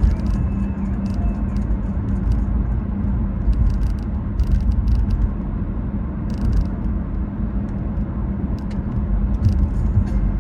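A car's steady low rumble with a constant hum, dotted with short scattered crackles.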